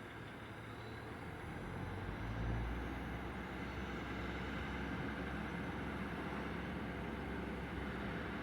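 Diesel train's engine rumbling as it pulls away from the platform, getting louder about two seconds in, then running steadily under load.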